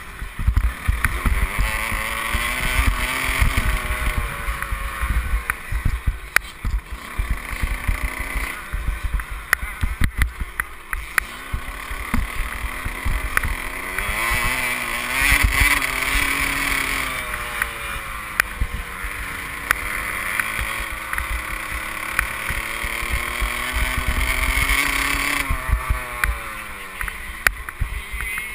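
Motocross bike engine heard from the rider's helmet camera, its pitch climbing and falling repeatedly as the throttle is opened and closed through the gears, with wind rumbling on the microphone.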